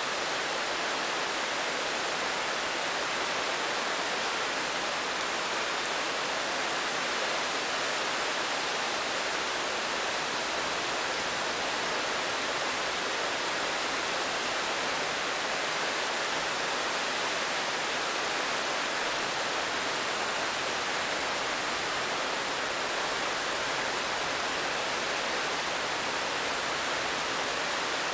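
Steady rain falling, an even hiss with no single drops, thunder or other events standing out.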